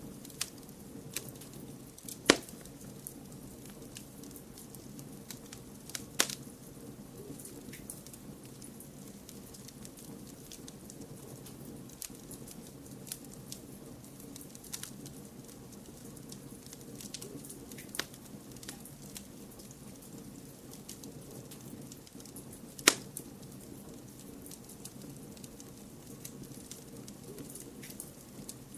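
Wood fire crackling over a steady hiss, with many small ticks and four louder sharp pops spread through.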